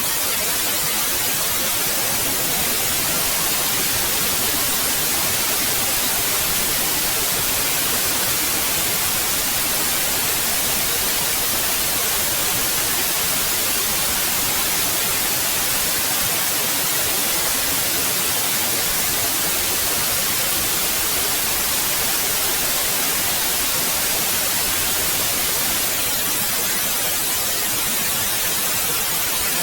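Synthetic white noise: a steady, even hiss across the whole range, brightest in the treble, unchanging throughout.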